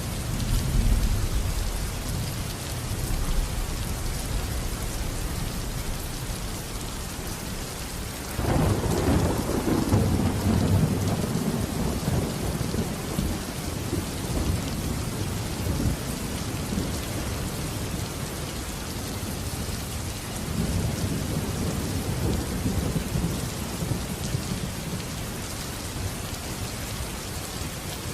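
Steady rain with thunder: a low rumble at the start, a sudden crack of thunder about eight seconds in that rolls on and fades over several seconds, and a softer rumble near twenty seconds in.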